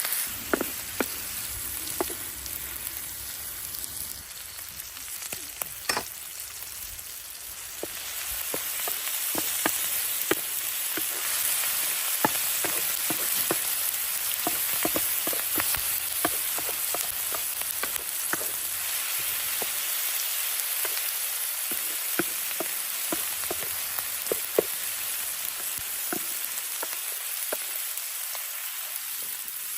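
Mushrooms sautéing in a hot pan: a steady sizzle with scattered sharp clicks and pops. The sizzle is quieter for the first several seconds and grows louder about a quarter of the way in.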